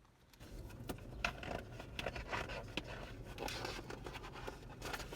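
Handling noise: irregular scraping and small clicks, over a low steady rumble that comes in about half a second in.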